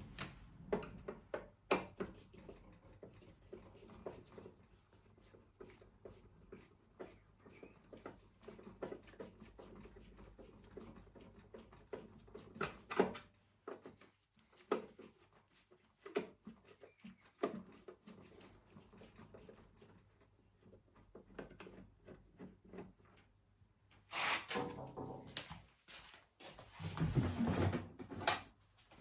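Scattered knocks, clicks and clatter of hands and tools working on an old lawn mower, with two louder, longer rustling or scraping bursts near the end.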